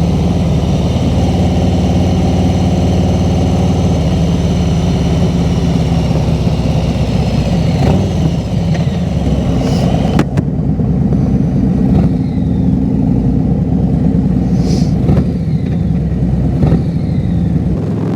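Harley-Davidson Road Glide's V-twin engine running steadily at cruising speed, heard from the rider's seat, with a few sharp clicks in the second half.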